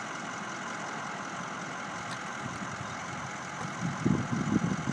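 A motor vehicle engine idling steadily, with irregular low rumbling that starts about four seconds in.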